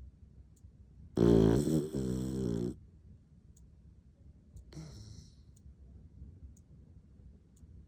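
English bulldog snoring: one loud, pitched snore starting about a second in and lasting about a second and a half, then a softer breath around five seconds in. Faint ticks about once a second run underneath.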